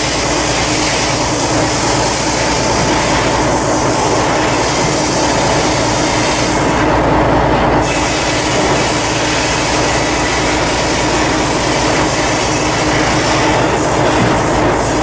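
Loud, steady machinery noise with a constant hum running under it.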